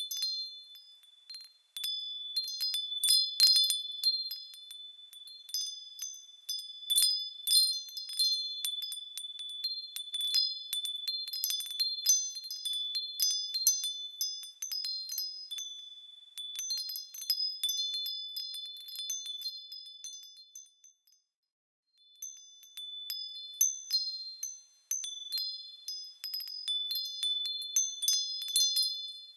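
Small metal bells tinkling as they swing, many light high-pitched strikes overlapping and ringing on, with a brief stop about two-thirds of the way through.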